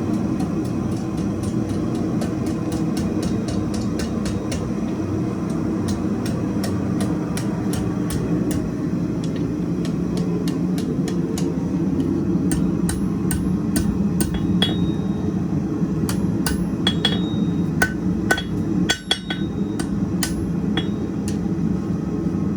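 Blacksmith's hammer striking hot steel on an anvil while forming the rounded loop end of a wall hook, about three blows a second at first, then sparser blows with the anvil ringing. Underneath runs the steady rush of a gas forge burner.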